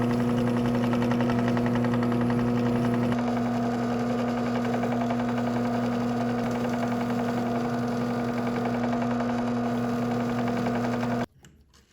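Electric power tool motor running steadily with a strong hum, easing slightly in level about three seconds in, then cutting off suddenly near the end.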